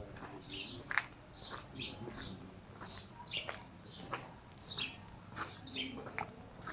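Small birds chirping repeatedly in short high notes, several a second. Under them are the soft, regular taps of footsteps on a concrete walkway.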